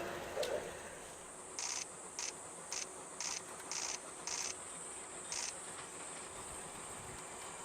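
Insects calling: a steady high buzz, with a run of seven short, high chirps over about four seconds. The last of a train's sound fades out in the first second.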